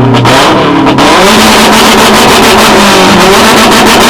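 Car engine revved hard and held at high revs, very loud, with a rapid crackle over the engine note.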